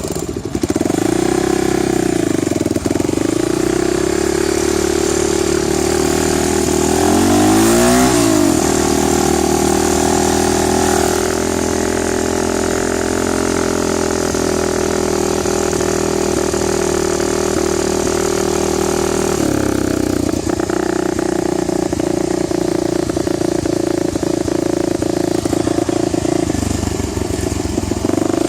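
Dirt bike engine running under way, its pitch dipping and climbing in the first few seconds and again about eight seconds in, then holding fairly steady.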